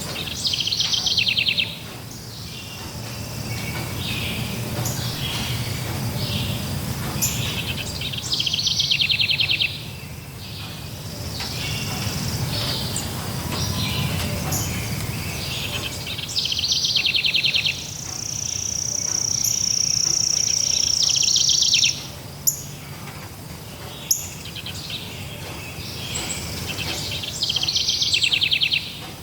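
Forest birds singing: a fast trilled phrase repeats about every eight seconds, and one long high steady note is held for several seconds in the middle. A low steady rumble runs underneath, and two sharp clicks come shortly after the long note.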